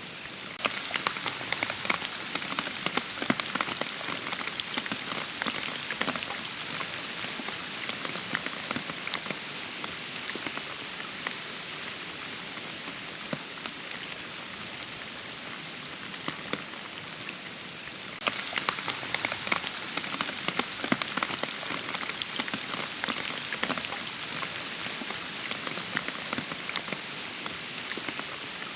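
Steady rain falling, with many sharp individual drops striking close by. It grows heavier about a second in and again after about eighteen seconds.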